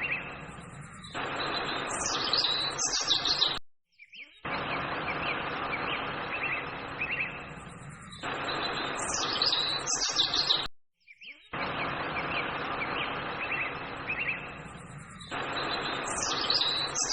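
Birds chirping over a steady outdoor hiss. It is a short recording played three times in a row, with a brief gap of silence between each pass.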